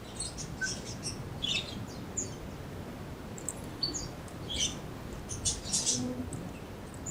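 Young black-capped lory giving a series of short, high chirps and squeaks, the thin calls of a parrot just learning to vocalize.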